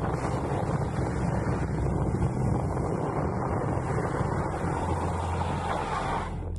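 Wind buffeting the microphone over the low rumble of a penny board rolling along, without a break.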